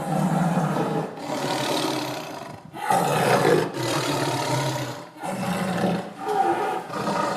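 Lion roaring: a run of about six rough, throaty calls, each about a second long, with short breaks between them.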